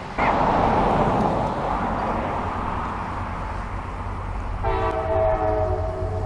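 A train rolling by with a steady rumble; about two-thirds of the way in, the locomotive's horn sounds a held chord of several notes.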